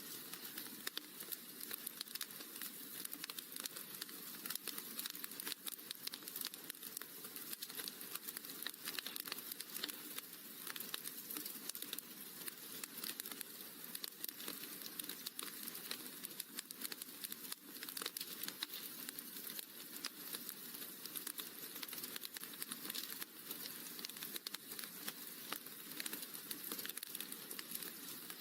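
Wood fire crackling in a fireplace: a dense, steady run of small pops and snaps.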